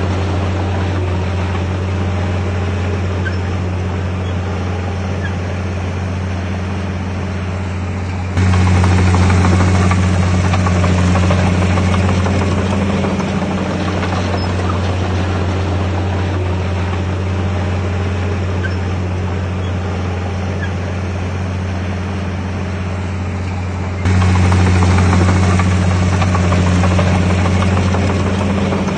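Bulldozer's diesel engine running steadily with a low, even hum, stepping suddenly louder twice, about 8 and 24 seconds in.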